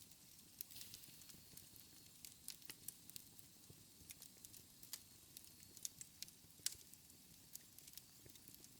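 Wood fire in a fireplace crackling quietly: irregular sharp pops and snaps over a soft steady hiss.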